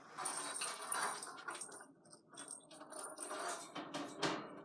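Small bird foot toys clattering and jingling as they are gathered and dropped back into a container: a busy run of clicks and rattles with a faint high ringing, like a little bell, through much of it.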